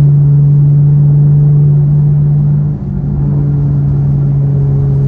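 Dodge Charger GT's 3.6-litre V6, straight-piped through Super 10 mufflers, droning steadily at highway cruise in sport mode, heard inside the cabin. About three seconds in the drone briefly dips and settles at a slightly lower pitch.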